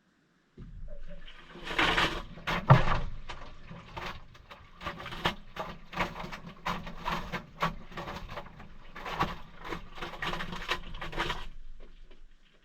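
Maytag washing machine washing a load of towels in cold water: the motor starts with a low hum about half a second in and runs for about eleven seconds, with water and wet towels sloshing and thudding irregularly, then stops near the end.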